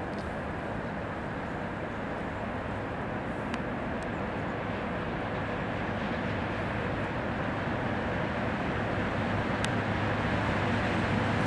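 Approaching freight train hauled by a VL80T electric locomotive, heard before it comes into view: a steady rumble with a low hum that grows gradually louder.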